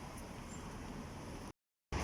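Faint steady background noise, a low hum and hiss with no distinct event, cut off by a moment of dead silence about a second and a half in, as at an edit.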